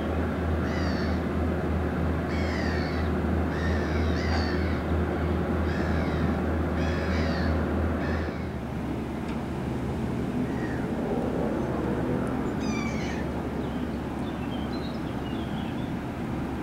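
Birds giving repeated harsh, downward-sliding calls about once a second, fewer and sparser in the second half, over a steady low engine drone from the inland cargo vessel. The drone drops in level about eight seconds in.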